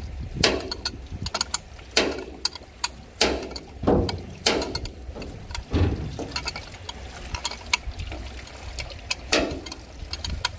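Metal clanging as a hammer strikes steel pipe fittings, the blows coming at uneven intervals and each one ringing briefly, over a steady low engine hum.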